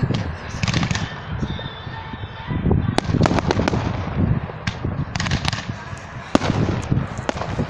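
Aerial fireworks going off: an irregular string of sharp bangs and crackles from rockets and bursting shells, the densest volleys about three seconds in and again past the five-second mark.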